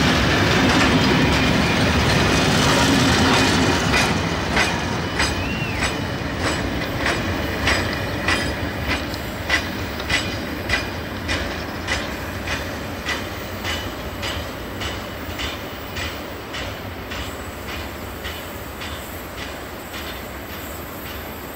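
A passing train: a loud rumble for the first few seconds, then a steady run of wheel clacks over the rail joints that fades as the cars move away, with a brief high wheel squeal about five seconds in.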